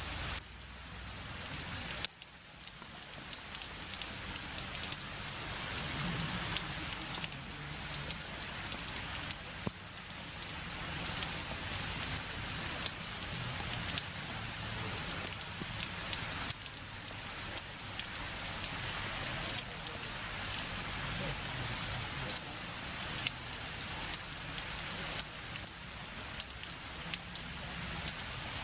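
Heavy rain pouring down, a steady dense hiss with fine ticks of individual drops. It dips briefly about two seconds in and builds back.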